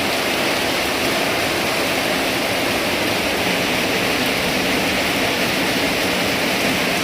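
Rain falling, an even, unbroken hiss that holds at the same level throughout.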